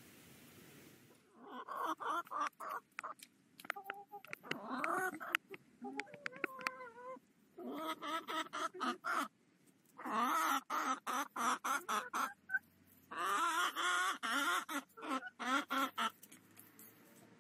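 Chickens clucking in about five bursts of quick, pitched calls separated by short pauses, starting about a second in.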